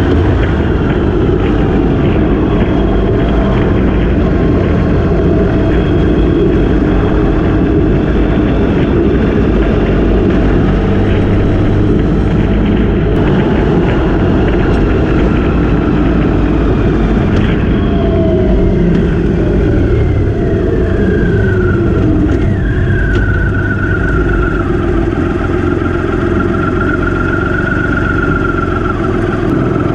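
Motorcycle running at road speed under heavy wind noise on the microphone; about two-thirds of the way through the engine's pitch falls, then holds steady.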